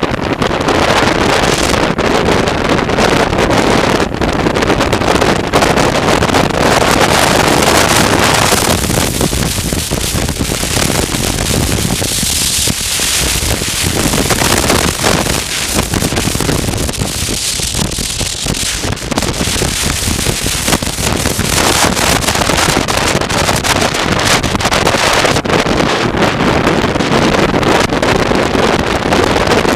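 Wind rushing over the microphone on a moving motorcycle, with engine and road noise underneath; the rush thins twice for a second or two in the middle.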